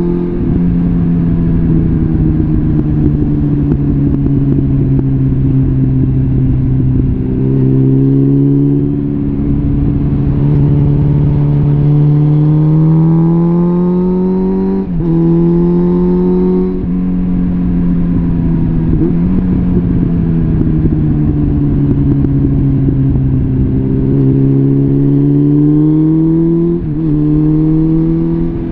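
Suzuki GSF650 Bandit's inline-four engine breathing through a complete Arrow exhaust system while riding under way. The engine note climbs slowly with the throttle, drops sharply at a gear change about halfway through, falls and climbs again, and dips briefly at another shift near the end.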